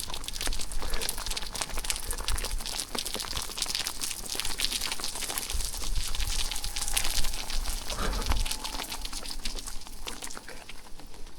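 Rain falling steadily, a dense patter of drops, with a few low rumbles along the way; the patter thins out near the end.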